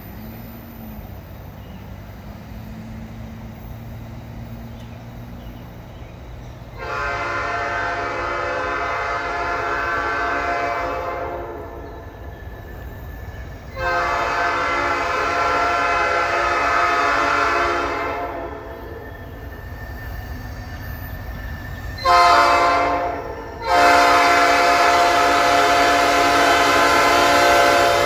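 Nathan P5 five-chime air horn on a GE ET44AC locomotive sounding the grade-crossing signal: two long blasts, a short one and a final long one, starting about seven seconds in. Underneath is the low rumble of the approaching freight train.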